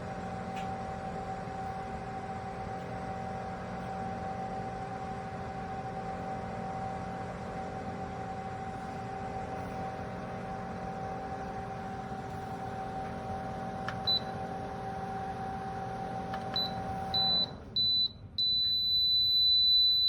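Nuwave Bravo XL Pro air fryer toaster oven running with a steady convection-fan hum that cuts off about 17 seconds in, followed by a few short high beeps and then one long beep. The oven shutting off and beeping signals the end of cooking, as the probe is meant to stop it once the chicken reaches temperature.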